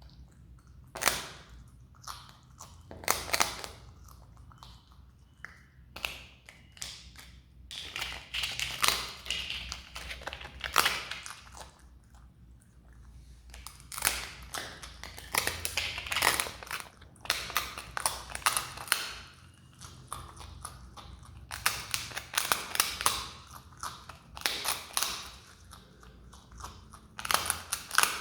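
Himalayan marmot biting and crunching a crisp rice cake, in bursts of dry crackling crunches with short pauses between.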